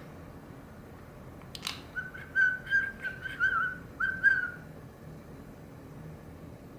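Budgerigar whistling: a quick chirp, then a run of about eight short, even whistled notes at one pitch lasting about two and a half seconds.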